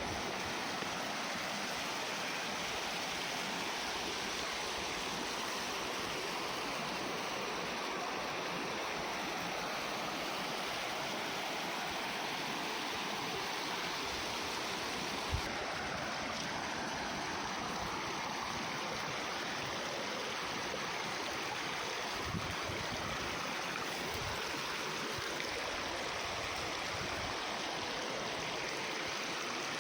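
Steady rush of flowing water from a mountain stream or waterfall, even and unbroken, with a single brief thump about halfway through.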